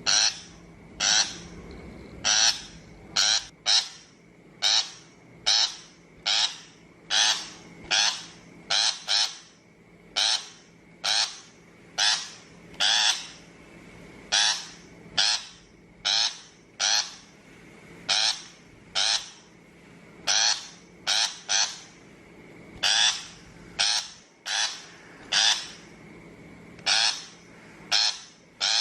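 Shrike (bách thanh) calling over and over: short scratchy calls a little more than once a second, some given in quick pairs.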